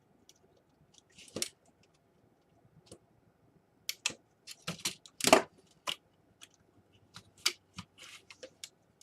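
Irregular small clicks, taps and scrapes of plastic laptop parts being handled and pried during disassembly, with one louder knock a little past the middle.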